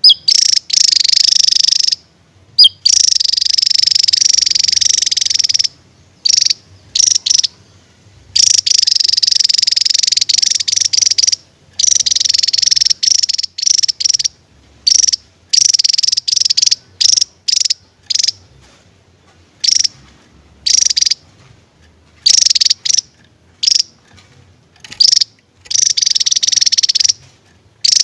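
Javan tesia singing loud, high-pitched, rapid buzzing trills in repeated bursts, some brief and some lasting a few seconds, with short pauses between them.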